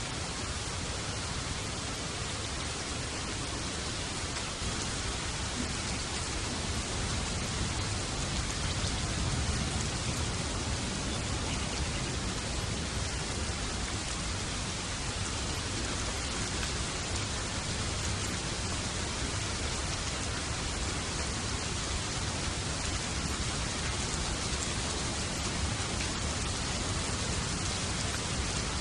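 Steady rain, a dense even hiss, with a low rumble beneath it that swells slightly about a third of the way in.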